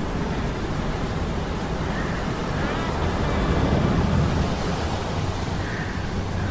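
Ambient mix of a steady low metallic hum from machinery gears under a continuous wash of storm surf and wind, swelling slightly about four seconds in. A brief faint gliding squeal sounds briefly about two and a half seconds in.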